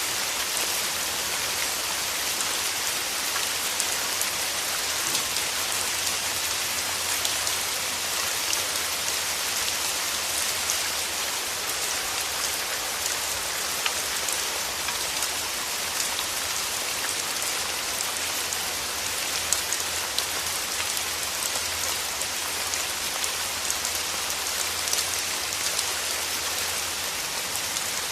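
Steady rain falling through forest trees, a dense even hiss with scattered close drop patters.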